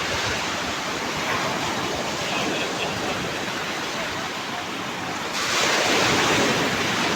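Rough sea surf breaking on the shore, a steady rush of water that swells louder as a bigger wave breaks about five seconds in.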